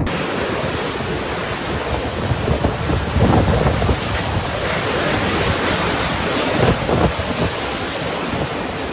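Typhoon storm noise: a loud, steady rushing of wind that swells a little now and then, with gusts buffeting the microphone.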